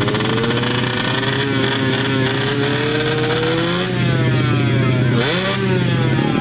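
Underbone (bebek) drag motorcycle engines running hard, their pitch climbing as they accelerate. About five seconds in the pitch drops sharply and climbs again.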